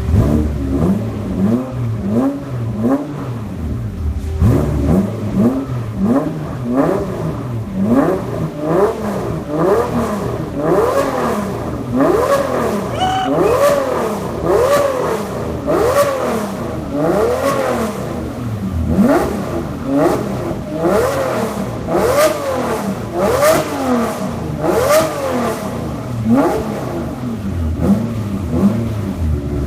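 Toyota Supra's engine, billed as a twin-turbo V12, blipped over and over through a new center-exit exhaust: about one rev a second, each rising and falling in pitch, with a short pause about four seconds in.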